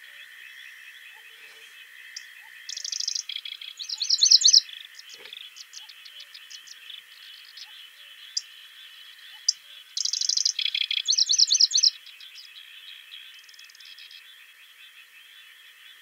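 A songbird singing two loud song phrases, each a rapid high trill running into a quick series of sweeping notes. Scattered single chirps and a steady chorus of fainter high calls continue between them.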